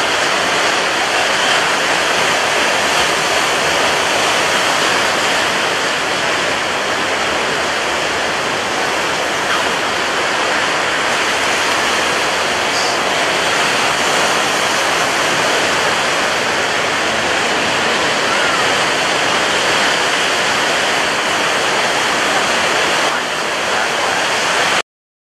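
Heavy rain pouring steadily, a dense, even rushing hiss that cuts off abruptly near the end.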